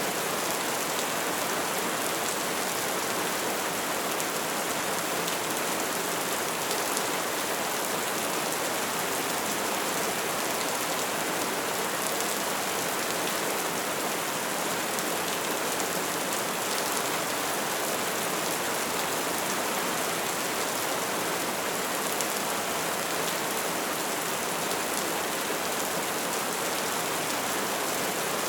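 Wood fire burning: a steady hiss of flames with many small crackles.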